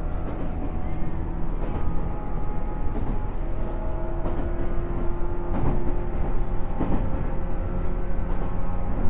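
A JR 107 series electric train running at speed: a steady whine from the motors and gearing over wheel and rail rumble. Short clacks from the wheels crossing rail joints come about every second and a bit.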